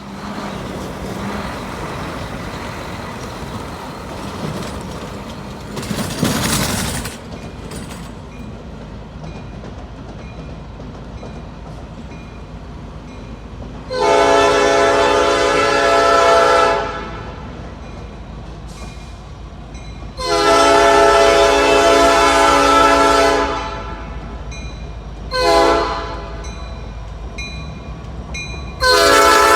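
Diesel locomotive air horn sounding the grade-crossing signal: two long blasts, a short one, and a last long blast starting just before the end. Under it runs the low rumble of the approaching train. A brief loud whoosh comes about six seconds in.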